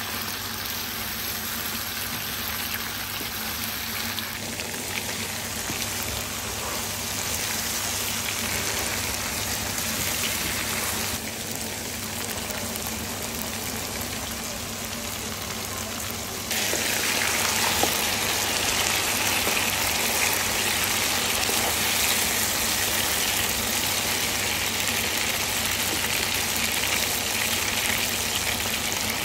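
Chicken pieces sizzling in hot oil in a non-stick wok, a steady crackling hiss. It grows louder a little past halfway, as the chicken is seared.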